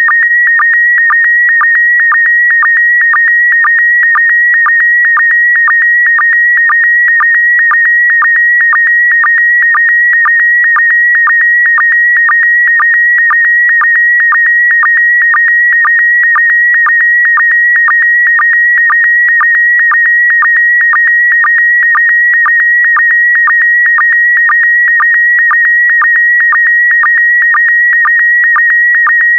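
Slow-scan television (SSTV) image signal in PD120 mode: a loud, steady high tone, broken about twice a second by brief drops to a lower pitch, the sync pulses that mark each new pair of picture lines.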